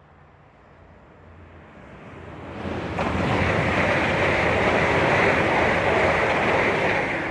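A train passing at speed: rumble and rush build over about three seconds into a loud, steady roar, with wind buffeting the microphone.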